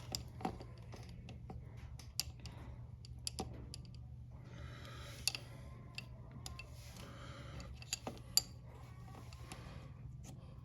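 Scattered light metallic clicks and handling noises from a chain press tool being handled and repositioned on a motorcycle drive chain's connecting link, over a faint steady low hum.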